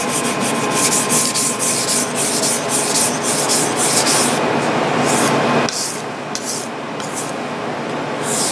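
Kitchen knife blade stroked back and forth on a wet 1000-grit whetstone, a rhythmic gritty scraping of about three strokes a second. The strokes turn softer and sparser about six seconds in.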